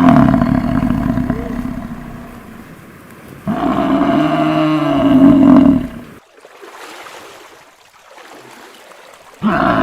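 A large animal calling: a loud, drawn-out call that starts abruptly and fades over a few seconds, then a second call that wavers in pitch and cuts off sharply, followed by a quieter stretch.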